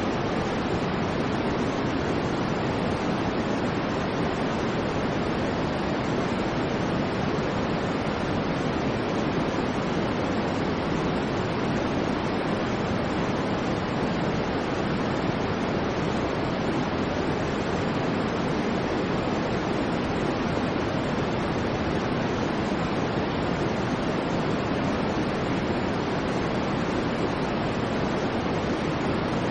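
Continuous white noise: a steady, even hiss that never changes in level.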